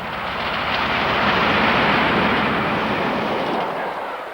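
Steam locomotive Taw Valley, a Bulleid West Country class Pacific, passing by with its train: a rushing noise that swells to a peak and then fades away.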